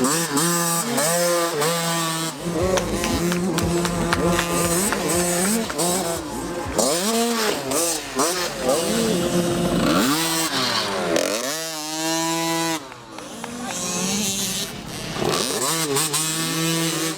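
Small two-stroke motocross bike engines revving up and down repeatedly, with a steady engine note underneath and one long climb in revs about two-thirds of the way through.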